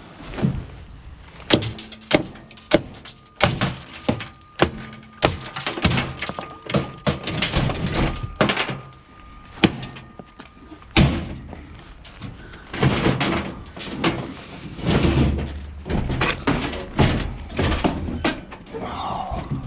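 Repeated metal clanks, knocks and bangs, with some ringing sheet metal, as a washing machine is broken apart to get its motor out.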